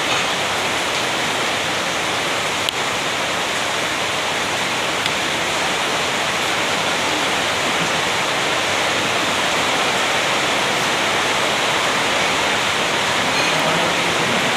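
Steady loud rushing noise, even and unbroken, with one brief click a little under three seconds in.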